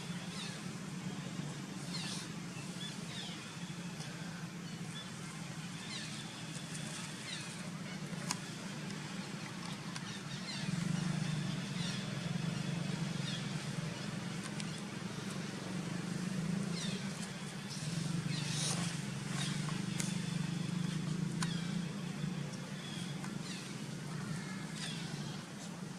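Monkeys giving short, high-pitched squeaks and cries, scattered irregularly and thickest toward the latter half, over a steady low hum.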